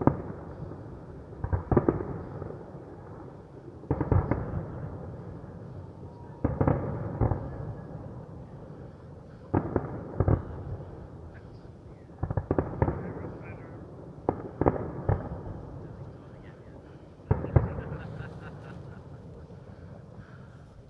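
Fireworks going off: muffled bangs in clusters every two to three seconds, each followed by a rolling rumble.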